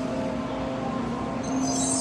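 Tokaido Shinkansen train rolling slowly past the platform: a steady low hum with several faint steady whining tones above it. About a second and a half in, a high hiss or squeal comes in and the sound gets louder.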